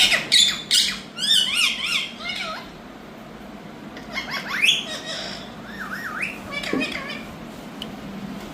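Indian ringneck parakeet calling: harsh squawks at the start, then quick wavering chirps. After a short lull comes a sharp rising call and a few more wavering notes, and it falls quiet near the end.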